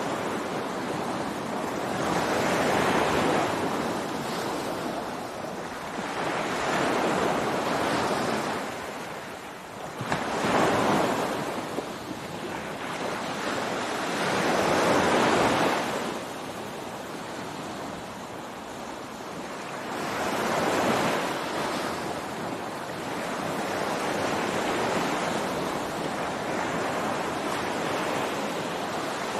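Ocean waves breaking on a beach: the surf swells and falls away in a slow rhythm, a wave every four or five seconds.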